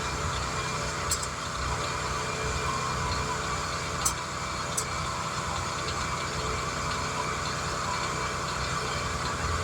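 An engine running steadily at idle, with a few light clicks: one about a second in and two a little after the middle.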